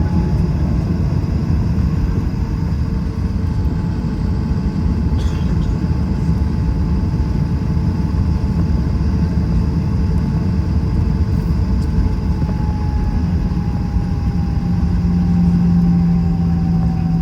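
Airbus A321 jet engines and airflow heard from inside the passenger cabin: a steady, loud rumble with a faint whine that slowly drifts in pitch and a low hum that swells near the start and again near the end.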